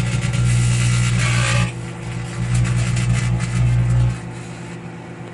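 Plasma from burning cardboard buzzing inside a running microwave oven: a loud low buzz with dense crackling, in two long surges with a short dip between, easing off about four seconds in.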